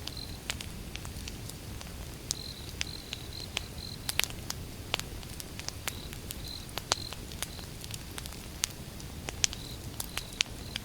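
Wood fire burning: irregular sharp crackles and pops over a low steady rumble, with runs of short high chirps in the background.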